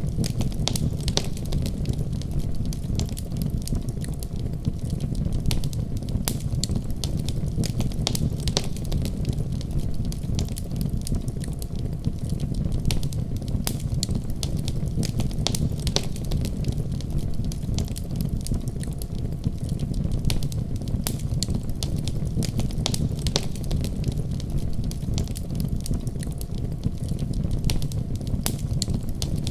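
Fire crackling in a fireplace: many sharp, irregular pops and snaps over a steady low rumble of the flames.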